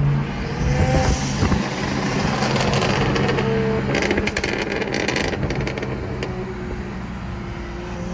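Performance car engine and exhaust running while driving, a steady drone, with a burst of rapid crackling about four seconds in.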